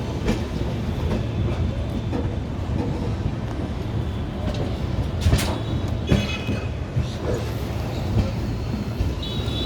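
Train rolling on the rails with a steady low rumble and a few sharp clanks, and a brief high-pitched wheel squeal about six seconds in and again near the end.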